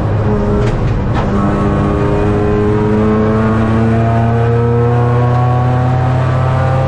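Race car engine heard from inside the cockpit, under load as the car accelerates. A couple of short clicks about a second in, then the revs climb slowly and steadily.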